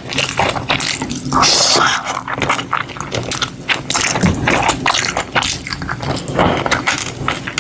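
Close-up eating sounds: chewing and biting, a dense run of crackling mouth clicks.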